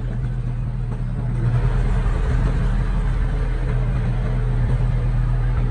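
Heavy-equipment diesel engine running steadily, a bulldozer or dump truck at work, picking up a little about a second and a half in.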